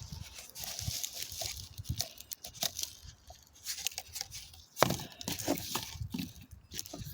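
Potting soil and a plant pot being handled: irregular rustling, crunching and scraping of dirt, with a sharp knock a little under five seconds in.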